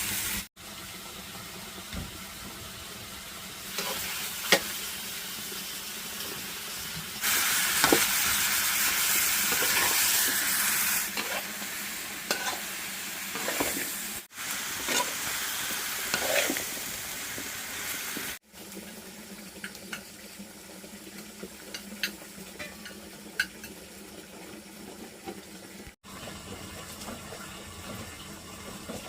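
Food frying and sizzling in a hot pan as it is stirred, with scrapes and clicks of the utensil against the pan. The sizzle is loudest for a few seconds about a quarter of the way in.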